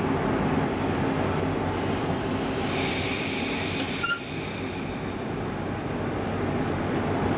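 Class X10 electric commuter train running, heard from inside the carriage: a steady rumble of wheels on track. About two seconds in, a hiss comes in over it and fades again about two seconds later.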